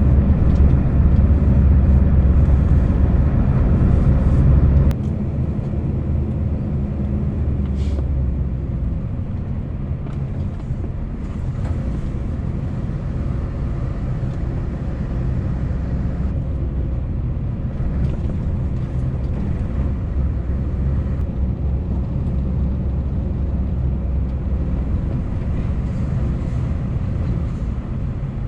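Scania S650's 16-litre V8 diesel engine running steadily as the lorry drives, with a low, even hum. The level drops suddenly about five seconds in, then holds steady.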